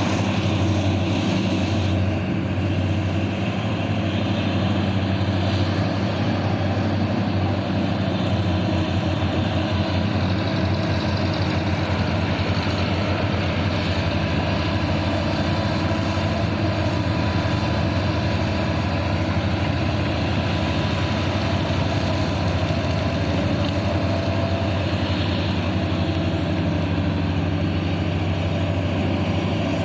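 Heavy mining machine's engine running steadily with an even, deep hum that neither revs up nor dies down.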